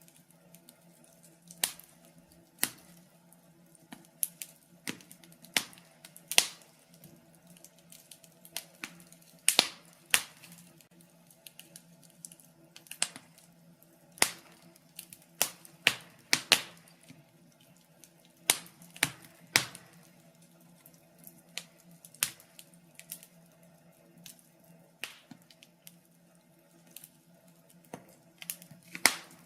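Wood fire crackling: burning logs giving off irregular sharp pops and snaps, some in quick clusters, over a faint steady low hum.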